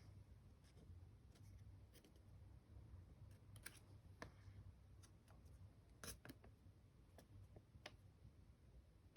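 Near silence: faint, irregular light clicks and crinkles of a sheet of paper being handled and folded, over a low steady hum.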